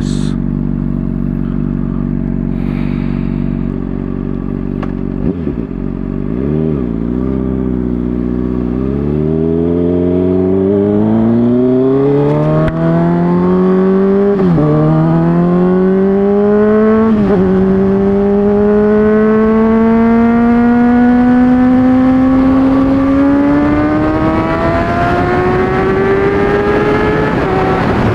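Honda CBR600RR inline-four through an MGP Growler exhaust, loud. It holds a steady note for several seconds, then accelerates hard: the pitch climbs, drops twice in quick succession as the rider upshifts, then climbs slowly through a long pull before a final shift near the end.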